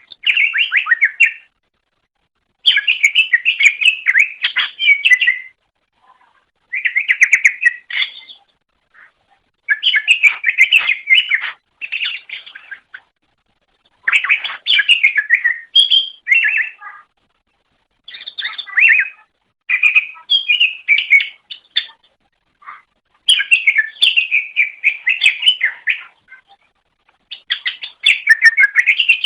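Greater green leafbird (cucak ijo) singing: about ten rapid phrases of many short, quickly changing notes, each one to three seconds long, with brief pauses between them.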